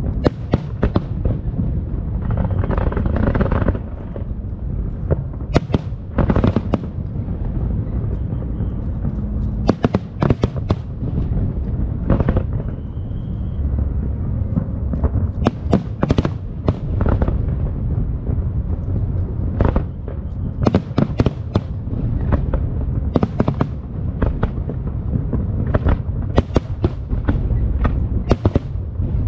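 Aerial fireworks going off in quick succession: many sharp bangs and crackles, often in clusters, over a continuous low rumble of booms.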